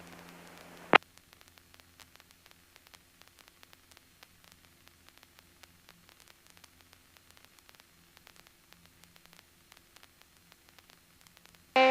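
Faint crackling static and a low hum on an aircraft radio/intercom audio feed, with one sharp click about a second in.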